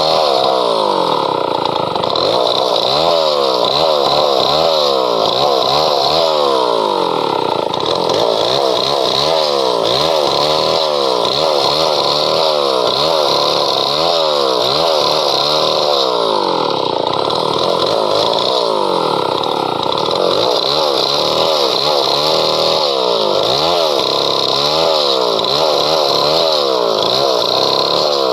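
Chainsaw running hard while cutting through a padauk log, loud and continuous, its engine pitch wavering rapidly up and down through the cut.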